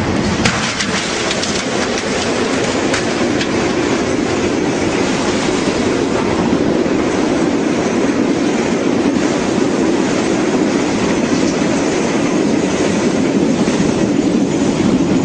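A train running by, a loud steady rumble of wheels on the rails, with a few sharp clicks in the first few seconds.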